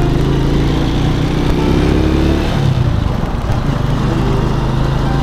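Small motorcycle engine running as the bike rides slowly, its note shifting about halfway through.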